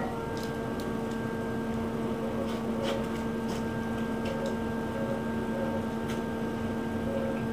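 A motor running with a steady hum, with a few faint scattered ticks over it.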